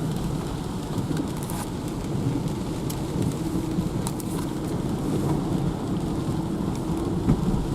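Steady rain outdoors, with an even low rumble underneath and a few faint ticks.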